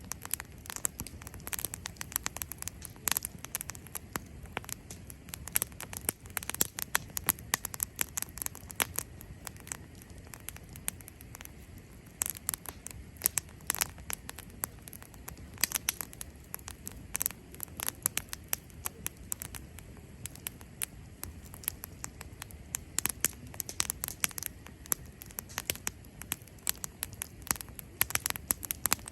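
Cherry-wood campfire crackling and popping, with many irregular sharp snaps over a low steady hiss of the flames.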